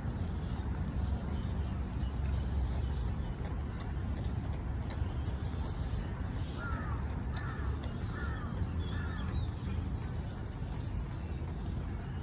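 A bird calls four times in quick succession about two-thirds of the way in, with fainter high chirps of smaller birds, over a steady low outdoor rumble.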